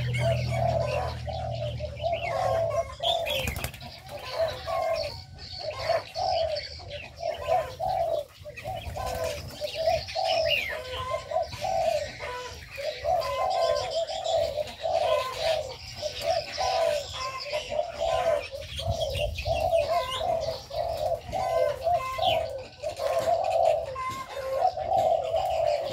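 Several doves cooing over and over, their low coos overlapping, with smaller birds chirping higher up.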